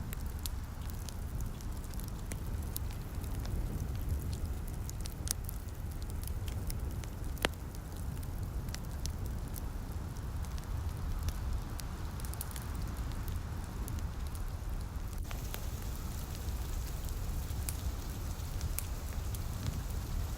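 Fireplace crackling with scattered sharp pops, one louder pop about seven seconds in, over a steady hiss of light rain and a low rumble. The high hiss gets brighter about fifteen seconds in.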